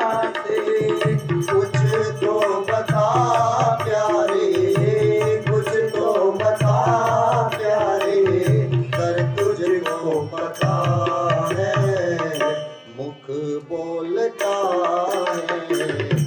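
Bhajan music with tabla keeping a steady rhythm under a melodic instrument line. The music thins out briefly about three-quarters of the way through.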